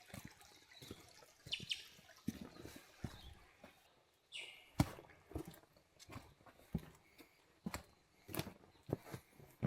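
Footsteps on a rocky, leaf-littered bush track, an irregular run of crunches and knocks about one to two a second, with two short bird calls, one about a second and a half in and one past the middle.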